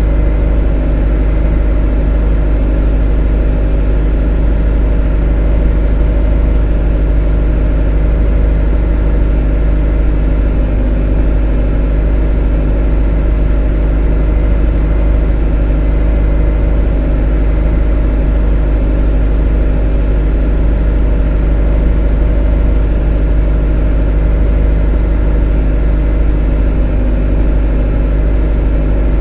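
A motor running steadily at one unchanging speed: a deep, constant drone with a steady hum of several tones above it, never rising or falling.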